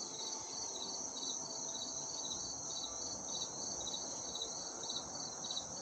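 Insect chorus: a steady high-pitched trill with a second insect chirping in regular pulses about three times a second.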